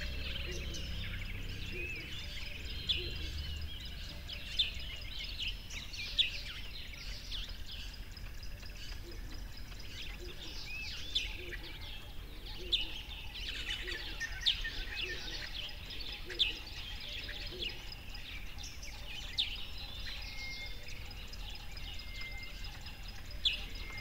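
A chorus of many birds chirping and twittering, with sharp single chirps standing out every second or two over steady background noise.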